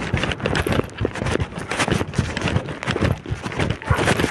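Strong wind buffeting the microphone: a gusty, irregular rumble with many short knocks and thumps.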